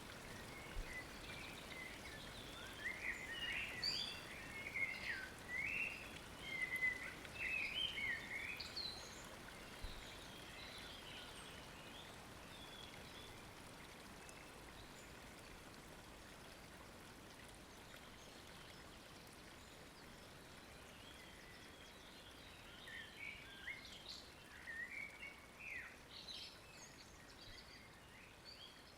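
Two spells of quick, high bird chirps and twitters, one early and one near the end, over the steady soft rush of flowing water.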